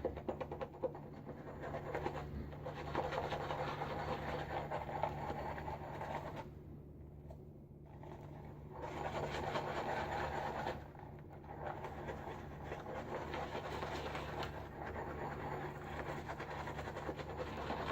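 An old boar-bristle shaving brush swirling and whipping shaving soap into lather, a continuous scratchy swishing that stops briefly twice, about 7 and 11 seconds in.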